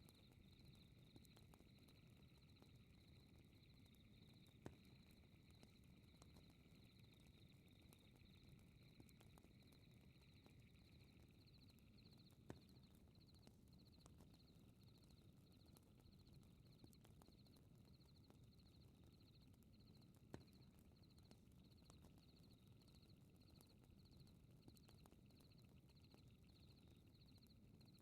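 Faint fireplace and night ambience. A low fire rumble carries three sharp crackle pops. Over it, night insects chirp in a fast, even pulse, and a second, steadier insect trill stops about twelve seconds in.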